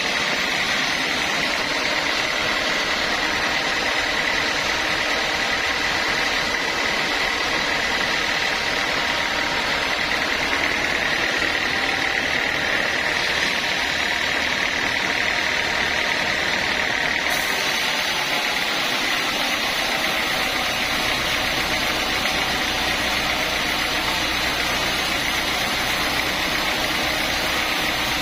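Sawmill saw running steadily, a constant high whine over dense machine noise.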